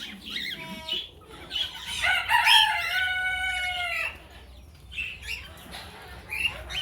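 Aviary birds calling: a couple of short calls, then one long, pitched call of about two seconds starting about two seconds in, dropping slightly in pitch before it stops.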